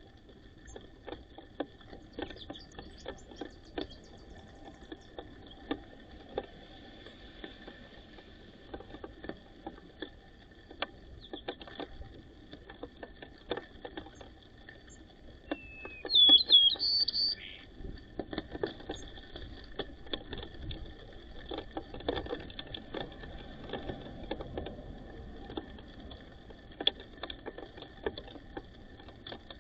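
White-crowned sparrows pecking at seed, giving many scattered irregular ticks and taps, with one loud short chirping call about halfway through.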